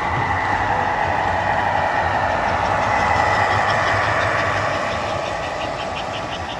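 A model train running, with a steady whirring hum. A few seconds in, a rhythmic clicking of about four to five ticks a second comes in.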